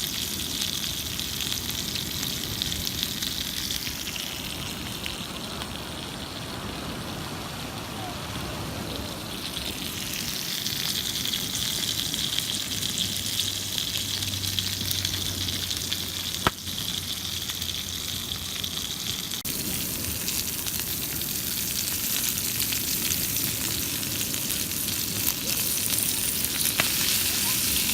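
Chicken wings frying in oil in a cast iron pan over wood embers: a steady sizzle, with one sharp click about halfway through.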